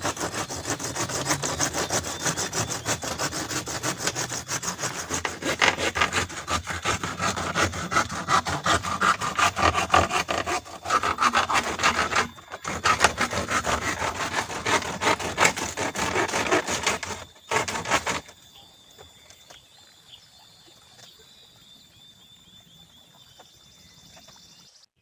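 Saw cutting through bamboo in a long run of quick strokes, with brief pauses about 11 and 12.5 seconds in, stopping about 18 seconds in.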